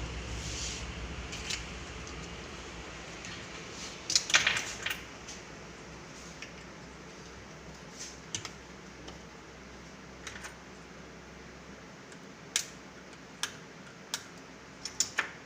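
Sharp clicks and taps of small hand tools working on a TV power-supply circuit board while a component is desoldered and pried out. There is a cluster of clicks about four seconds in and several single clicks near the end, over a faint steady hum.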